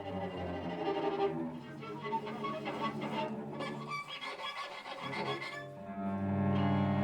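Piano trio of piano, violin and cello playing contemporary chamber music softly: sustained low cello notes under scattered short higher notes. The sound thins out, then a louder sustained low chord swells in about six seconds in.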